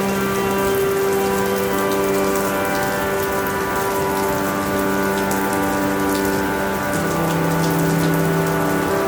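Steady rain falling, with the patter of individual drops, over a bed of soft held tones that shift in pitch a couple of seconds in and drop lower about seven seconds in.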